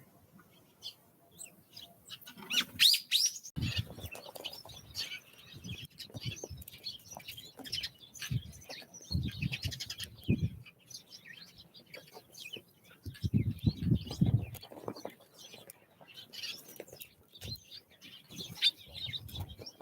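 Small songbirds chirping and calling over and over at a winter feeder, with a few short low bursts of noise, about four seconds in, around ten seconds and around fourteen seconds.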